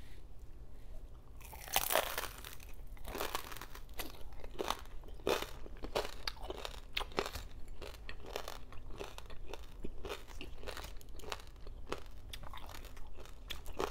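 A bite into crispy lechon kawali, deep-fried pork belly with crackling skin: a loud crunch about two seconds in, then steady crunchy chewing with many small sharp crackles.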